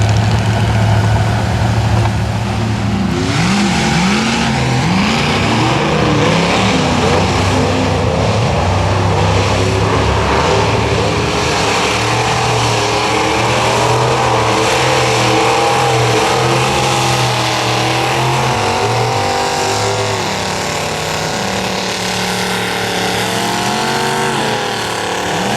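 Mud-bog truck's big engine running loud. It holds a steady low drone for about two seconds, then revs up and down in quick repeated swoops, then stays at high revs with a wavering pitch and a few more rising revs near the end.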